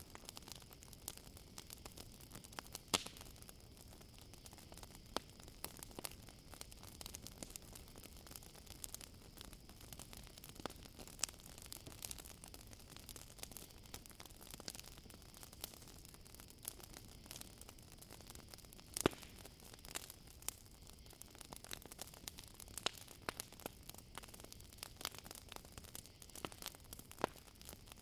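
Campfire crackling with a steady stream of small pops and two louder snaps, one about three seconds in and one past the middle. A faint, steady high chirring of crickets runs underneath.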